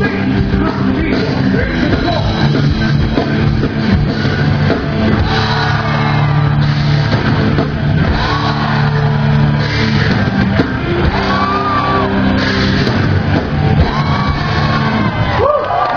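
Rock band playing loud in a large hall, a singer shouting and singing over guitars, bass and drums; the music breaks off just before the end.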